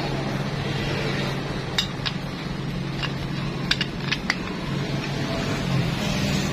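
Light metallic clicks and clinks of small motorcycle clutch parts being handled and fitted, scattered mostly through the middle, over a steady low hum.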